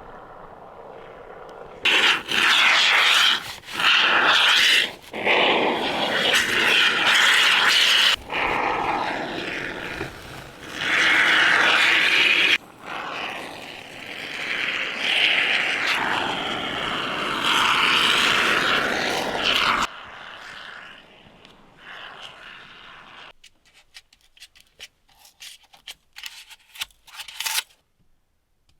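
Loud scraping and grinding of a tool working on material, in stretches of a few seconds whose pitch sweeps up and down. It stops about two-thirds of the way through, and scattered light scrapes and taps follow.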